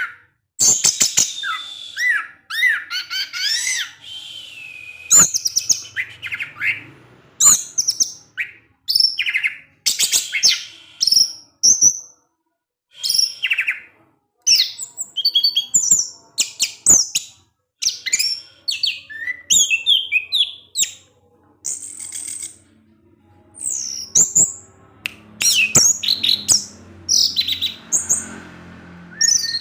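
Orange-headed thrush singing a fast, varied run of short whistles, chirps and slurred notes in quick phrases, with a pause of about two seconds near the middle.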